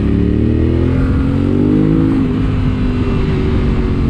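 Yamaha Ténéré 700's 689 cc parallel-twin engine under way: its revs climb for about two seconds, then fall back and run steady.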